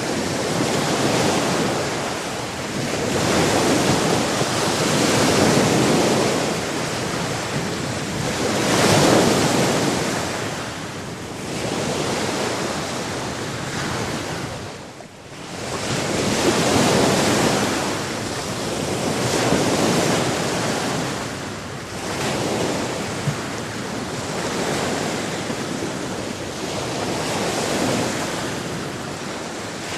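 Sea waves breaking and washing in, a steady rush that swells and falls every few seconds, with a brief lull about halfway through.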